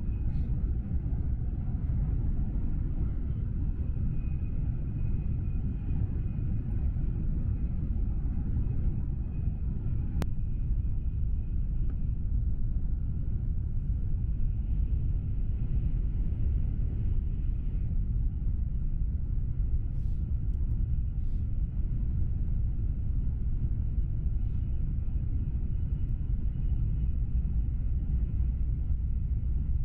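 Steady low rumble of a Tokaido Shinkansen Nozomi bullet train running at speed, heard inside the passenger cabin.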